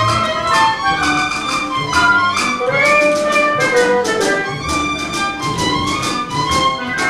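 Theatre band playing an up-tempo instrumental passage of show music, with brass and strings over a steady beat of about four strokes a second.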